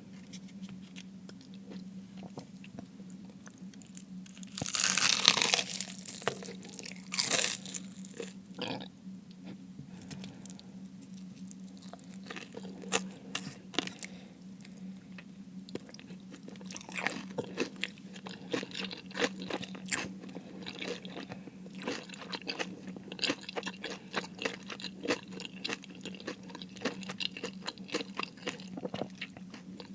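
Close-miked bites into crispy fried food: two loud crunching bites early on, then continuous crunchy chewing with small crackles over a faint steady low hum.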